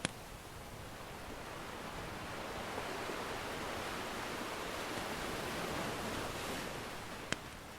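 Ocean surf washing in as a steady hiss that swells slowly and eases off again, with the odd sharp pop from a crackling wood fire, once right at the start and once near the end.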